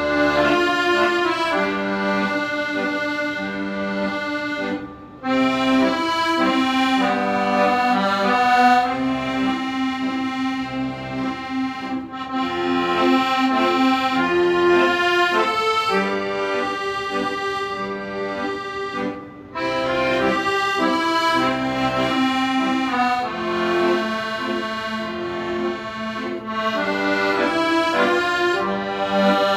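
Accordion playing a melody with chords over lower bass notes, the sound dipping briefly twice between phrases.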